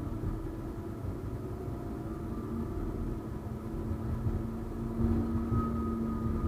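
71-931M Vityaz-M tram in motion: a steady rumble with a low hum running through it, the hum and the overall level rising about five seconds in.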